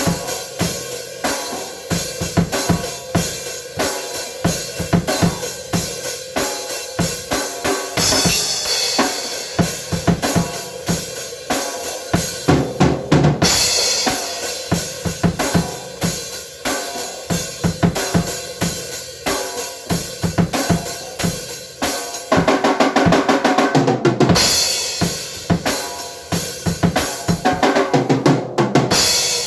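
A drum kit being played: a steady beat of bass drum and snare with cymbals, broken by several fast fills.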